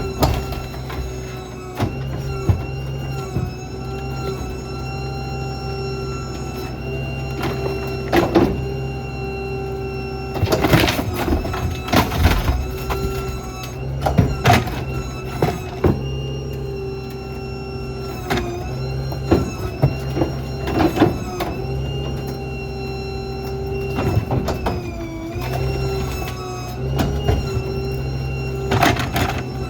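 Small rear-load garbage truck (New Way Diamondback on a Ford F-550) working its packer: the engine runs steadily under a high hydraulic whine that dips briefly a couple of times, with repeated sharp knocks, clunks and crunches of debris being loaded and crushed.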